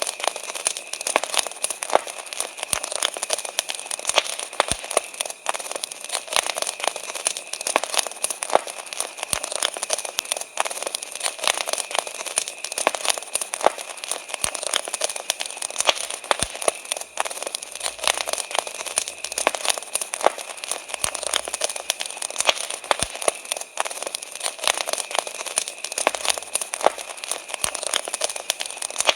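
Wood campfire crackling, with dense, irregular pops and snaps. A steady high crickets' chirping runs underneath.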